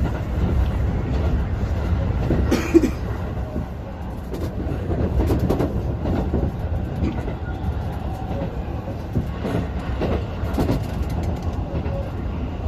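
Tobu Railway electric train running along the track, heard from on board: a steady low rumble with irregular clacks as the wheels cross rail joints, and one sharp bang a little under three seconds in.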